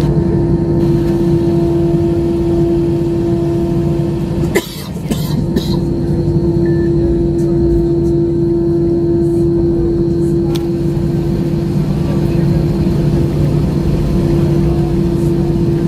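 Steady jet-airliner cabin drone in an Airbus A320-family aircraft: a constant hum with a steady mid tone. About four and a half seconds in it dips briefly with a few clicks, then carries on unchanged.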